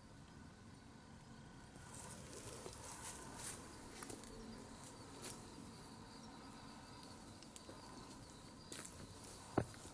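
Faint scattered rustles and clicks over a steady faint hum, with one sharper click near the end.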